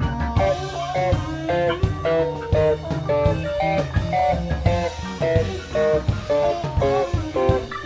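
Live rock band playing an instrumental passage: an electric guitar plays a run of quick single notes over bass guitar, drums and keyboards.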